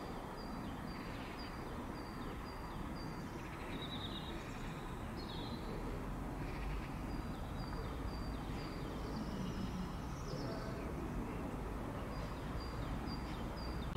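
Birds singing, one repeating a short high note about three times a second in runs of several notes, over a steady low rumble.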